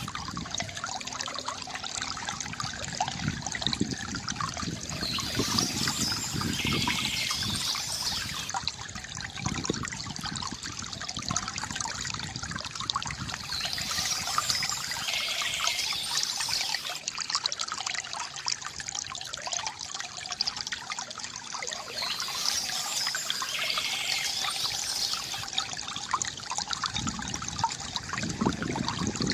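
Water trickling and gurgling steadily from a bamboo fountain, with birds chirping in short spells that come back every several seconds.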